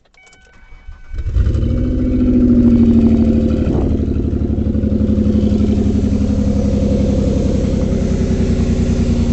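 2003 Ford Escape engine cranking and catching about a second in, then idling with a pulsing beat. It is misfiring, a fault traced to a bad ignition coil.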